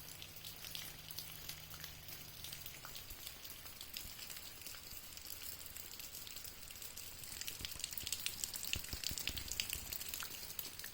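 Rain falling, a dense patter of many small drops on a surface, heavier and louder for the last few seconds.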